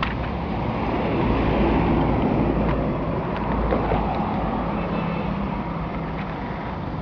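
Road traffic: a motor vehicle's engine and tyres passing close by, swelling about a second in and fading slowly.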